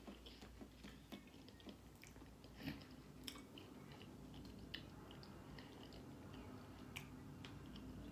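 Faint close-mouthed chewing of a breaded, cream-cheese-filled jalapeño popper, with scattered small crunches and mouth clicks.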